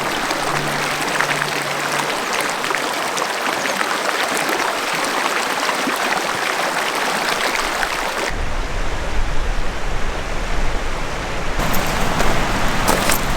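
Rushing stream water, a steady hiss. About eight seconds in it switches abruptly to a low rumble, with the water hiss coming back near the end.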